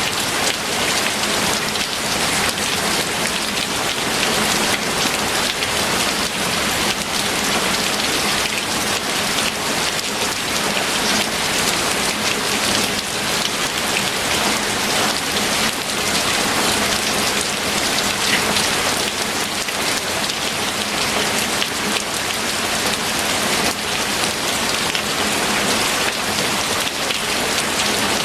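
Steady, heavy rain falling on a surface, a dense continuous patter with no pauses.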